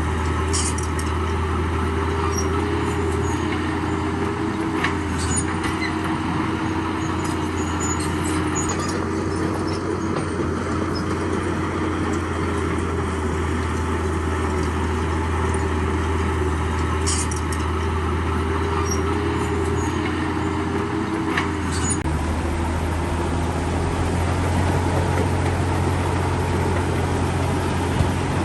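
Heavy diesel earthmoving machinery running steadily under load, a constant low engine drone with a wavering mid-pitched whine over it, and a few brief sharp clanks.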